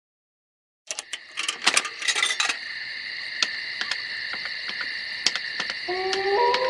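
Sled dogs in a high, steady whining chorus over sharp metal clicks and rattles that start about a second in. Near the end a lower dog howl begins and rises in steps.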